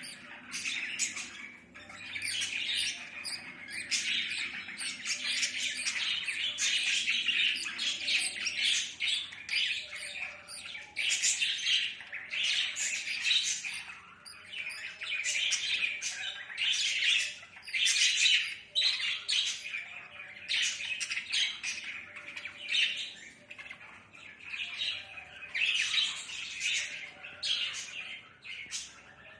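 Budgerigars chattering and squawking in rapid, uneven bursts of high chirps, almost without pause.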